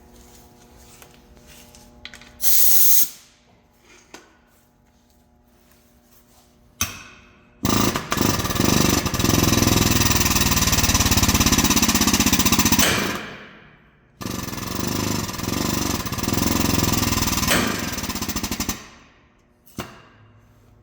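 Pneumatic air tool hammering rapidly in two long bursts of about five seconds each, a short pause between them, after a brief burst a few seconds in.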